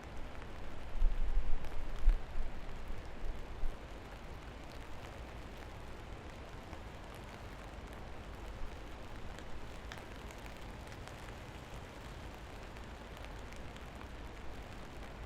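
Steady rain falling, an even hiss with scattered individual drips ticking. A loud low rumble swells about a second in and fades by about four seconds.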